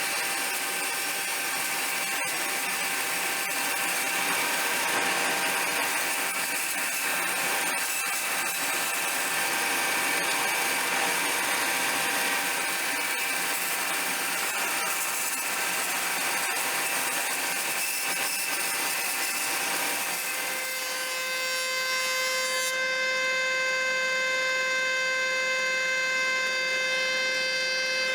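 Power tools working wood: a steady, noisy cutting or grinding sound, which about two-thirds of the way through gives way to a steady whine from a machine running.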